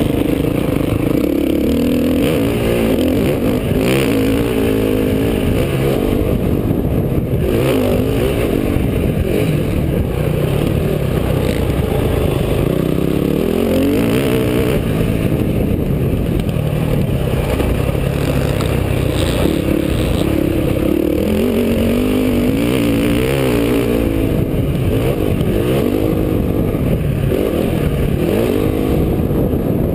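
Motocross dirt bike engine revving up and falling back again and again as it is ridden around the track.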